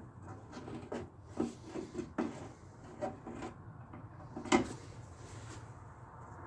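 Irregular scraping and light knocking of tools and parts being handled during a lawn mower front axle repair, with one sharper knock about four and a half seconds in.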